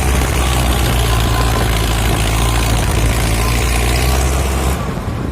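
Heavy diesel engine running steadily under a broad mechanical clatter, from the tractor or JCB at work in the mud. The steady engine note breaks off abruptly shortly before the end.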